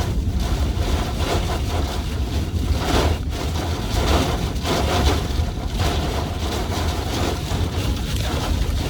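Strong wind roaring and buffeting the microphone, with a heavy, steady low rumble and a few brief swells.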